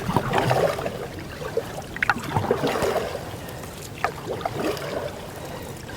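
Canoe paddled through shallow river water: paddle strokes and trickling water, with a couple of sharp clicks about two and four seconds in.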